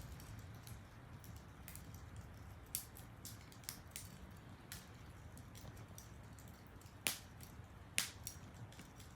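Wood fire crackling: irregular small ticks and pops, with sharper pops about three, seven and eight seconds in, over a low steady rumble.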